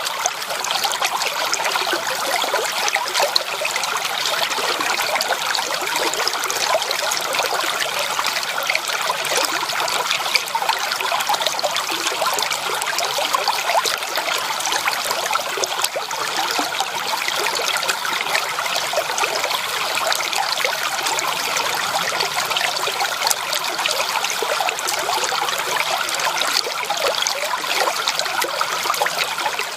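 Creek water trickling and babbling over stones, steady and continuous.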